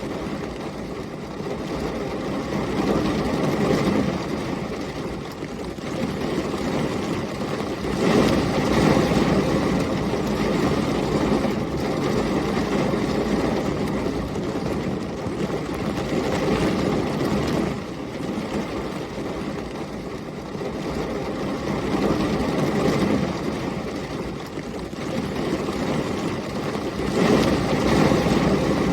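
Heavy rain and storm wind making a dense, steady rushing noise that swells louder in surges every several seconds.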